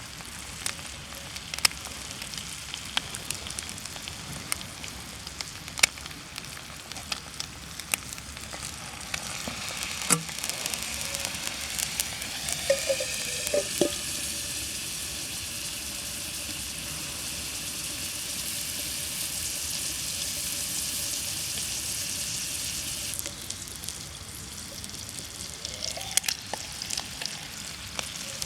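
Thick-cut bacon sizzling in a cast-iron skillet over a small wood-burning stove, with sharp crackles from the wood fire. A little before the middle there is a short scrape and clatter at the pan, then the sizzle turns louder and hissier for about ten seconds before easing.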